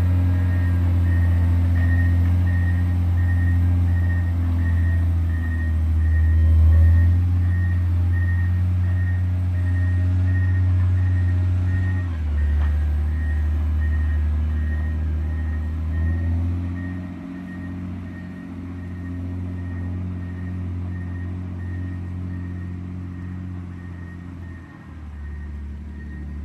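John Deere 670 GP motor grader's diesel engine running under working load, its pitch dropping and rising several times as the load and revs change. A faint high beep repeats about twice a second throughout.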